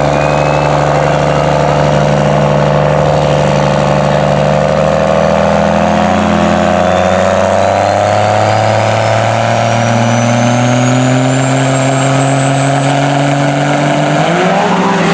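Diesel truck engine running steadily under load, with a thin high whine that climbs slowly in pitch throughout and a change in the engine note near the end.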